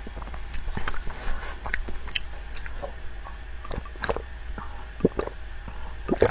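Close-up chewing and mouth sounds of a person eating, with irregular short wet smacks and clicks.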